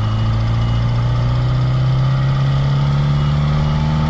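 Reliant Regal's small four-cylinder engine running under load, its pitch rising slowly as the car pulls away in a low gear. It is heard loud from inside the cabin with the engine covers off. A faint high beep repeats a few times early on.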